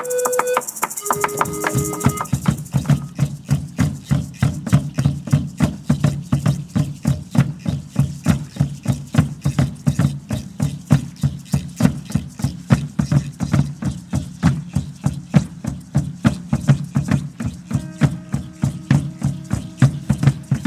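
Percussion music: a steady drumbeat of about three strikes a second sets in about a second in and keeps an even pace, with a few brief pitched notes at the start and again near the end.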